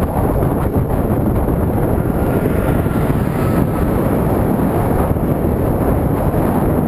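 Steady, loud wind rumble on the microphone of a camera riding along on a moving bicycle.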